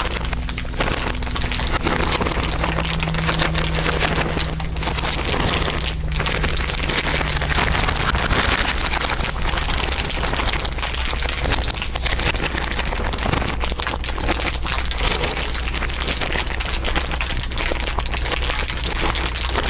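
Dense, continuous crinkling from several layered crinkle recordings, crackling like fire or rain, over a low steady hum.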